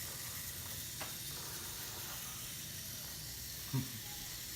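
Steady faint hiss, with a light click about a second in and a brief low sound near the end.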